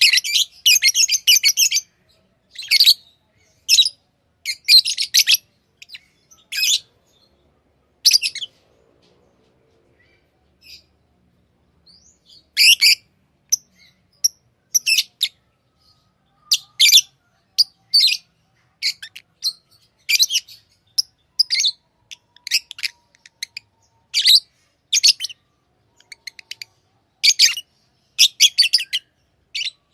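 Pet lovebirds chirping in short, high-pitched bursts, with a pause of a few seconds about a third of the way in.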